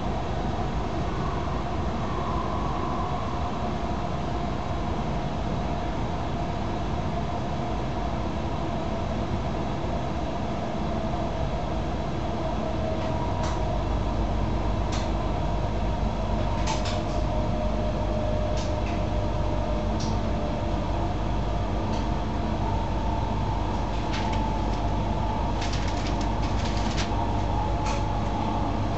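Inside the cabin of a CRH high-speed train: steady running noise, a rumble with a faint whine that drifts slowly lower as the train slows into the station. From about halfway the rumble deepens and sharp clicks come in, more often near the end.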